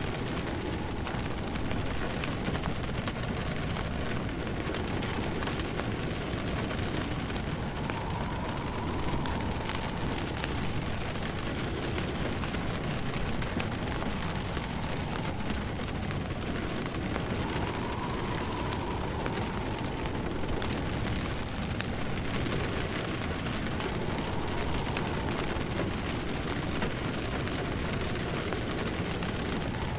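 Steady rain with a crackling wood fire. A faint wind howl rises and falls several times.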